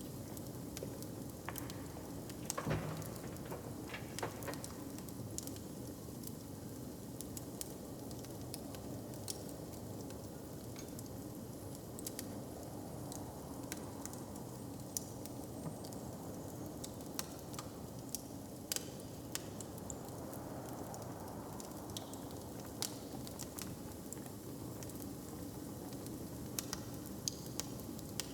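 Open fire crackling: a steady low hiss with scattered sharp pops and snaps, and one louder crackle about three seconds in.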